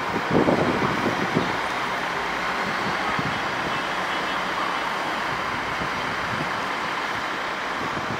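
GWR Intercity Express Train rolling past, a steady rumble and hiss of wheels and running gear, with a few knocks in the first second and a half.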